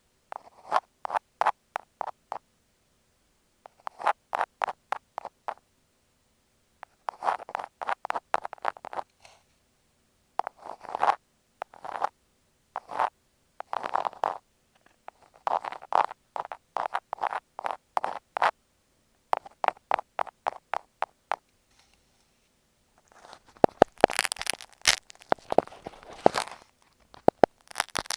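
Push pins clicking against an earphone microphone, in quick runs of sharp clicks with short pauses between them. Near the end the sound turns into a denser, brighter crackling.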